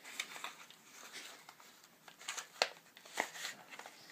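Packaging crinkling and rustling as it is handled, with several sharp clicks and taps mixed in.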